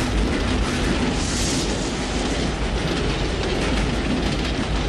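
Runaway diesel locomotives rushing past at high speed: a loud, steady rumble and clatter of wheels on rails, with a brief rise in hiss about a second in.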